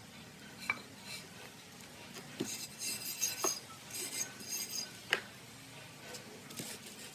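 Light metal clinks and taps, spread out, with a run of ringing metallic clinks about three to five seconds in: metal parts or tools being handled.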